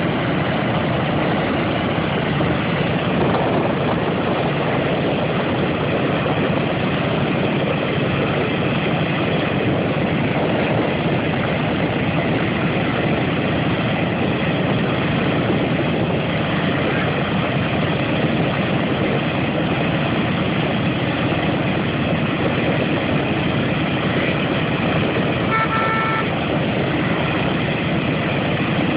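Four Wright R-1820 Cyclone radial engines of a Boeing B-17 Flying Fortress running steadily at low power. A brief beep-like tone sounds near the end.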